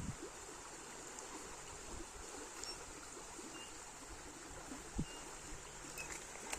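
River water flowing steadily, with one brief knock about five seconds in.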